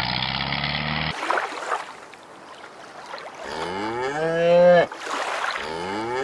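A cow mooing twice: each moo is long, rising and then holding, the first past the middle and the second starting near the end. Before them, a tractor engine running steadily cuts off abruptly about a second in, leaving the soft wash of shallow water.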